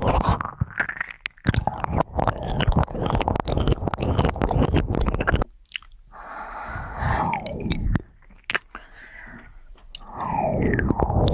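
Close-miked ear-cleaning sounds: an ear pick scratching and rubbing inside the ear in dense, crackling scrapes. The scraping drops to softer sweeping strokes for a few seconds in the middle, then comes back loudly near the end.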